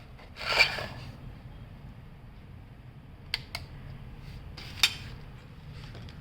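Small hard metal objects clattering, then a few sharp clicks, like tools or parts being handled on a workbench, over a low steady hum. The clatter about half a second in is the loudest; two quick clicks come around three seconds in and one more near five seconds.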